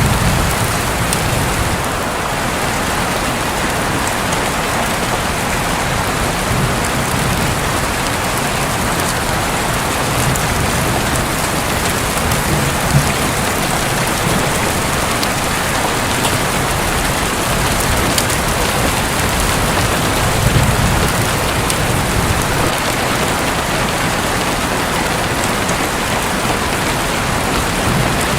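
Heavy, steady rain drumming on a roof, with low thunder rumbling now and then, the strongest rumble about two-thirds of the way through.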